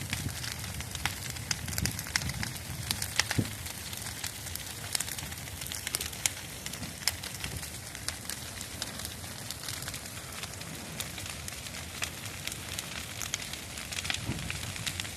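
Large bonfire of dry, dead tree stems burning, with constant irregular crackling and sharp pops over a low rumble.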